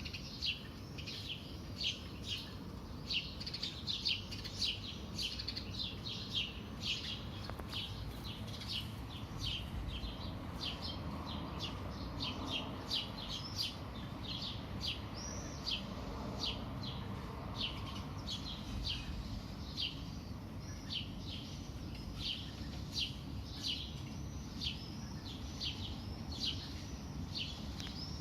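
Small songbirds chirping continuously: short, high, quick chirps, two or three a second, over a low steady background rumble.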